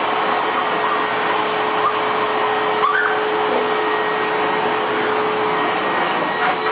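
Vacuum cleaner running steadily, a constant rushing noise with a steady hum, and a short squeak about three seconds in.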